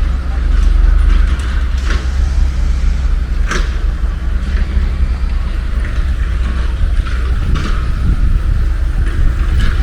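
Outdoor city ambience: a steady low rumble of road traffic, with a few short, sharp sounds scattered through it.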